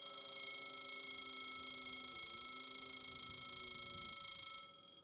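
Electronic warning ringer sounding a steady, high, rapidly pulsing tone that cuts off suddenly near the end.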